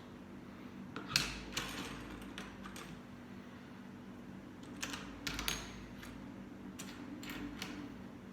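Plastic Lego pieces clicking and rattling as they are handled and pressed together: a scattering of sharp clicks, a few of them in quick pairs, over a faint steady hum.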